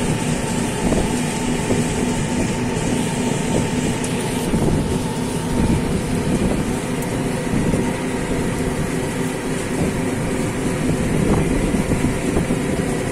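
Motorboat engine running steadily, a continuous low hum.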